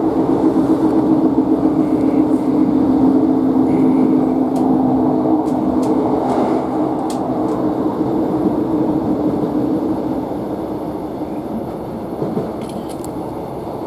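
Interior running noise of a Northern Class 150 diesel multiple unit, with a steady underfloor diesel engine hum over rail noise. About ten seconds in, the engine hum fades and the noise eases off as the train slows on the approach to the terminus.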